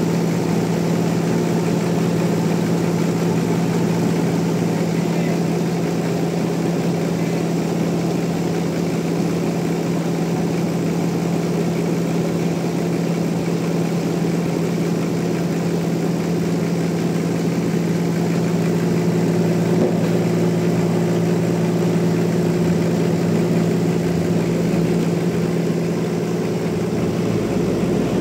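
Large sawmill machinery running steadily, a constant hum with no change in pitch.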